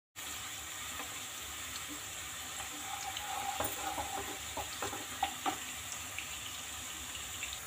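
Sliced onions, garlic and green chillies sizzling in hot oil in a kadhai while being browned, with a steady hiss. A wooden spatula stirs them, scraping and tapping the pan a few times about halfway through.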